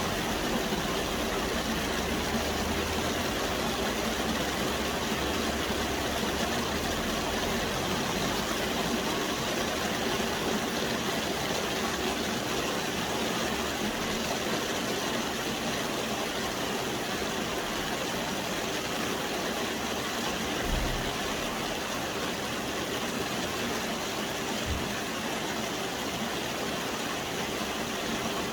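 Steady rain falling: an even, unbroken hiss. A low rumble sits under it for the first several seconds, and two brief low thuds come later.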